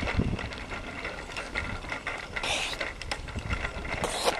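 A child's bicycle freewheel ticking rapidly as the bike coasts, over a low rumble, with two short bursts of hiss.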